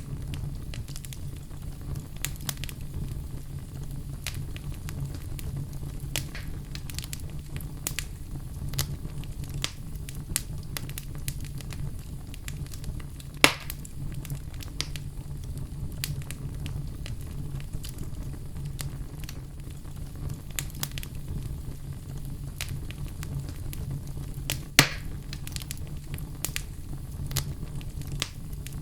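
Wood fire crackling, with many small sharp crackles over a steady low rumble and two louder pops, about halfway through and near the end.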